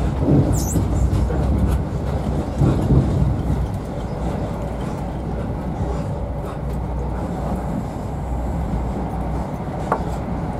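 Steady low rumble of an HST passenger coach running at speed, heard from inside the coach as the wheels run over the rails. A brief high squeak sounds about half a second in.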